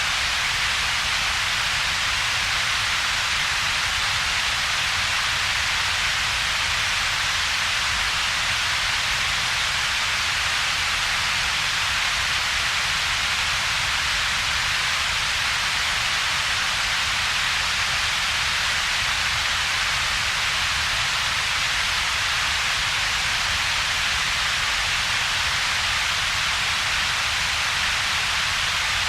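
Synthetic double-peaked coloured noise, steady and unchanging: a hiss centred in the upper middle range, around 2 to 6 kHz, plus a lower rumble, with little in between.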